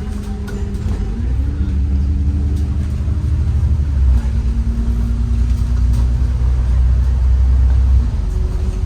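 Bus engine and drivetrain rumble heard from inside the cabin. The engine note rises about a second in, drops at a gear change about four seconds in, and the low rumble eases near the end.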